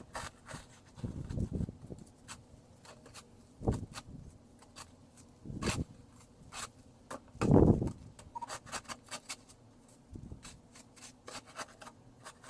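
Snow shovel scraping and crunching through snow in irregular strokes, the louder scrapes coming about every two seconds with smaller crunches between them.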